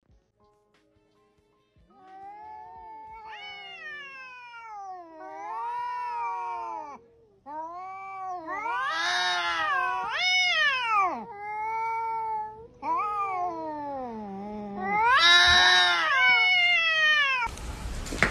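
Domestic cat yowling at another cat in a standoff: a long string of wavering caterwauls that rise and fall in pitch, starting about two seconds in. Near the end it cuts to a short stretch of rough noise.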